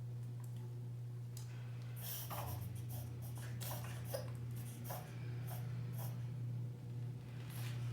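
A small Maltese-mix dog reverse sneezing: a run of short, sharp, irregular noisy inhalations that starts about two seconds in and runs for several seconds, then returns briefly near the end. Reverse sneezing is common and harmless in Maltese and Maltese mixes. A steady low hum runs underneath.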